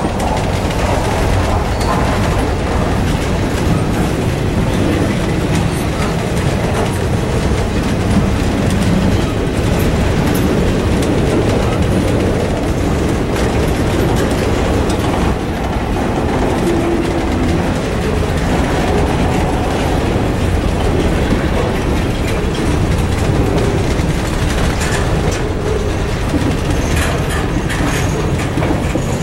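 Train cars rolling steadily past on the main line, wheels clicking over the rail joints.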